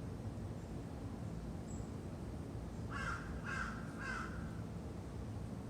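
A crow cawing three times in quick succession, about half a second apart, over a steady low background rumble.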